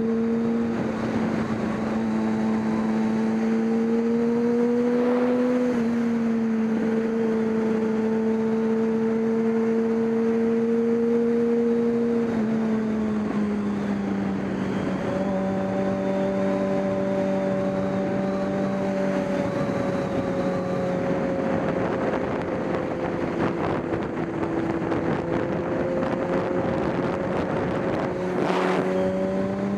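Racing motorcycle engine running hard at a fairly steady pitch. The note drops a little about twelve seconds in, stays lower, then rises again near the end.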